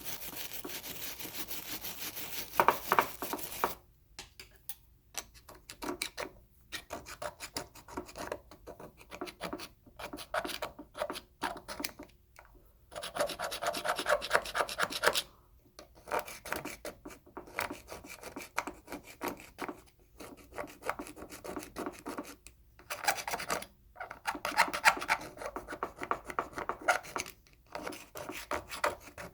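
A small brush and a small screwdriver scrubbing and scraping crud out of the passages and grooves of a Mikuni carburetor body during a rebuild: a steady scrubbing for the first few seconds, then rapid scraping strokes in bursts with short pauses between.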